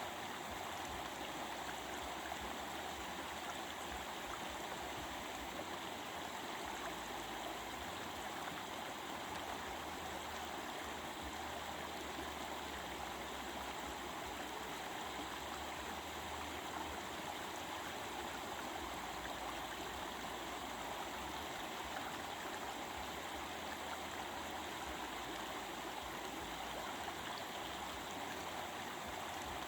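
A stream running steadily, a continuous babbling rush of water with no change in level.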